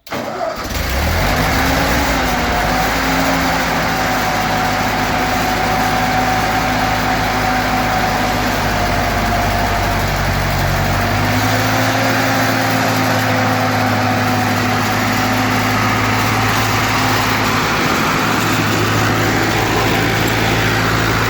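1942 Ford 9N tractor's four-cylinder flathead engine starting right up and running steadily on freshly replaced ignition points, its running note shifting about halfway through.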